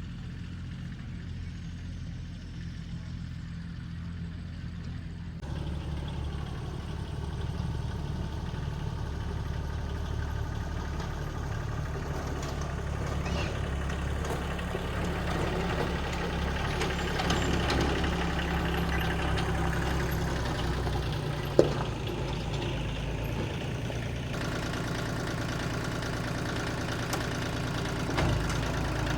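An engine running steadily at a constant speed, with a single sharp click a little over two thirds of the way in.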